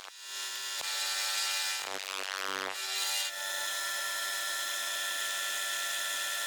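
A power tool running, its whine shifting for the first few seconds and then holding steady from about three seconds in.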